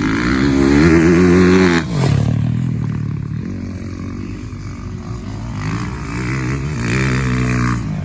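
Dirt bike engine revving hard under acceleration, its pitch climbing for about two seconds and then dropping off suddenly. A second climbing rev follows near the end.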